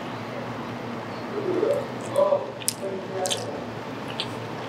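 Close mouth sounds of someone biting and chewing a sauce-coated fried chicken wing, with a few sharp clicks from the crisp coating in the second half.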